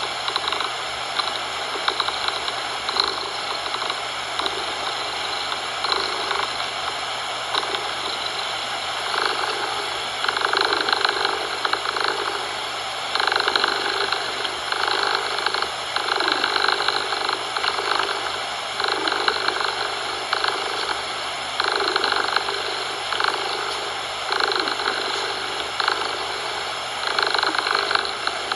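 Domestic cat purring, swelling with each breath every two to three seconds, over a steady bed of synthetic coloured noise.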